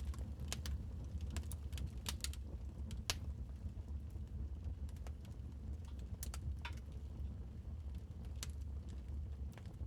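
Wood fire crackling: irregular sharp pops and snaps, busier in the first few seconds and sparser later, over a steady low rumble.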